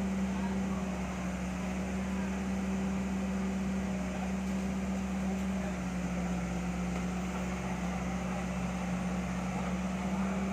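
A steady mechanical hum at one even pitch, unchanging throughout.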